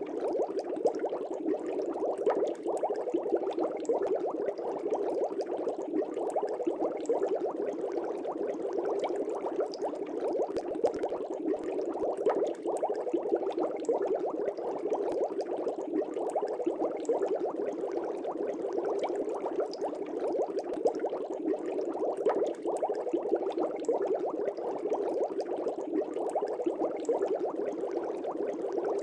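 Aquarium air bubbles rising through the water, a steady dense bubbling with many small pops and gurgles.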